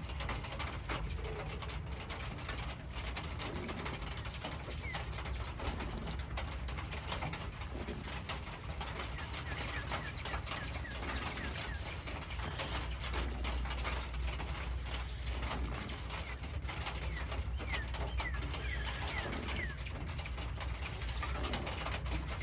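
Steady rain pattering as a dense stream of fine ticks, with brief bird chirps scattered through and a low hum underneath.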